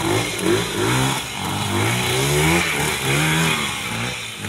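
Trials motorcycle engine blipped up and down over and over, its pitch rising and falling in several short sweeps, as the rider works it up a rocky climb.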